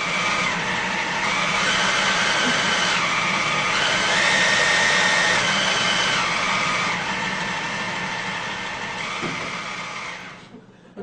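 A steady, motor-like whirring noise whose pitch steps up and down several times, then cuts off abruptly near the end.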